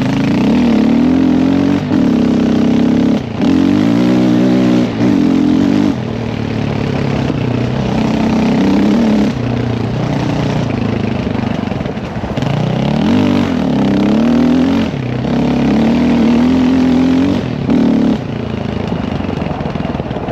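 Dirt bike engine being ridden hard, its pitch climbing and falling again and again, with brief drops in sound as the throttle is chopped or a gear is changed, several times in the first six seconds and once near the end.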